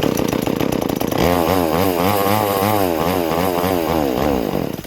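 Small two-stroke chainsaw engine running at high revs, its throttle blipped over and over so the pitch rises and falls about twice a second, then dropping away near the end.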